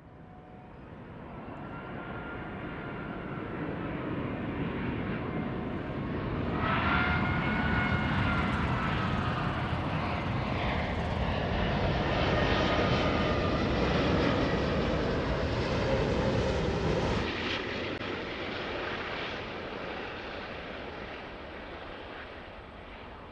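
Jet airliner flying past low, its engine noise swelling to a loud peak with whining tones that slide in pitch, then fading away.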